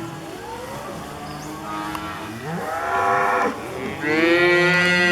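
Cows and calves bawling as they pair up: calves calling for their mothers and cows answering. Several overlapping calls build to a long, loud bawl starting about four seconds in.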